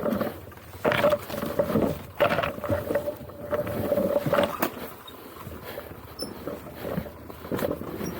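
Enduro motorcycle engine revving in irregular surges, with a steady whine through the first half that stops about four and a half seconds in.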